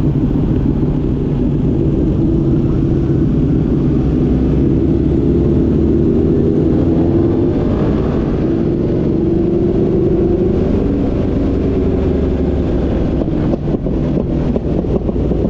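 A motor vehicle running, with a steady engine and road drone whose pitch drifts slowly up and down, and a few brief knocks near the end.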